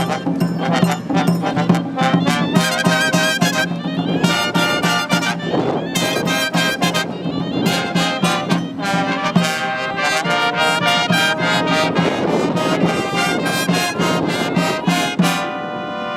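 Live brass band playing, with trumpets and trombones carrying the tune over a steady low bass line, and strong wind noise buffeting the microphone. Near the end the band moves onto held, sustained notes.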